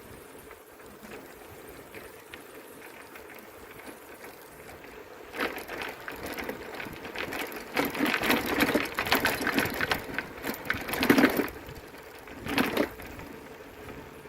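Bicycle rattling with rapid mechanical clicking, starting about five seconds in and lasting several seconds, then a shorter burst near the end, over steady riding noise.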